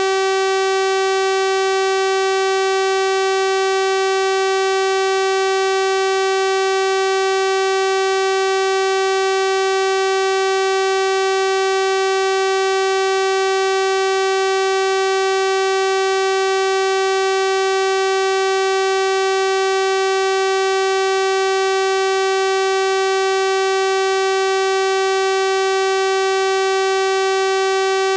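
Synthesized 384 Hz sawtooth-wave tone, a steady buzzy drone rich in overtones that holds one pitch at constant level without change.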